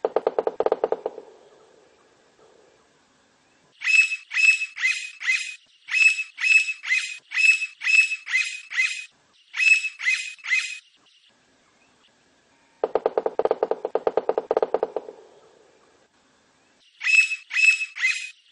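Blond-crested woodpecker calling in long series of loud, sharp repeated notes, about three a second. Twice a fast drumming roll of rapid knocks lasts a second or two, once at the start and once about two-thirds through.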